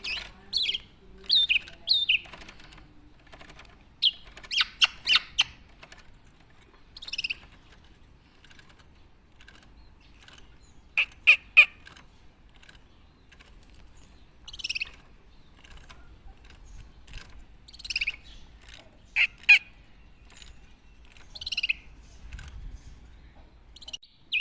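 Black-naped oriole calling in short, separate bursts of chirps and harsher notes, some in quick runs of three or four, with pauses between.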